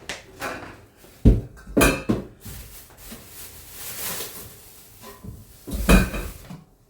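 Household items being handled in a kitchen: several sharp knocks, about a second in, near two seconds and near six seconds, with a few seconds of hissing rustle in between.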